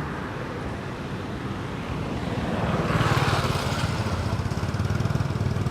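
A small engine running with a rapid low pulsing, growing louder around three seconds in.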